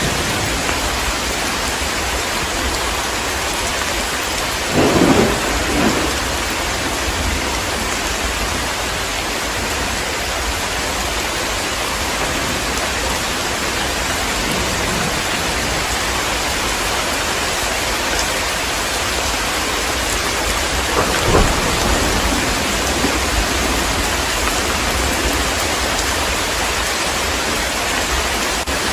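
Steady heavy rain falling, with a clap of thunder about five seconds in and a lighter rumble of thunder about twenty-one seconds in.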